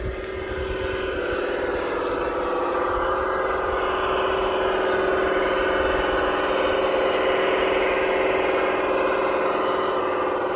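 Electric motor and gearbox of an RC4WD scale crawler truck whining steadily as it drives along, picking up about a second in and holding an even pitch.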